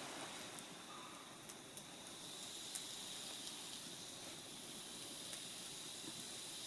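Faint steady hiss with a few scattered small crackles: wood smouldering in a fire before it catches into flame.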